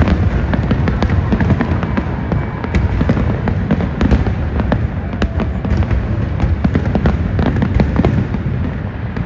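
Fireworks going off in rapid succession: a dense crackle of many sharp pops over a continuous deep rumble.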